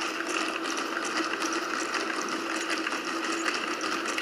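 A pack of Boston Dynamics Spot robot dogs running, their electric motors and actuators making a steady mechanical whir with a constant low hum and faint rapid ticking.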